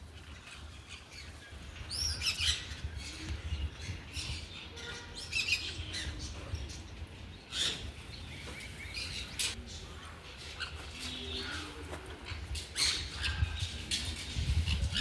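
Captive aviary birds calling: a mix of short high chirps and harsher squawks, irregular and overlapping, over a low rumble.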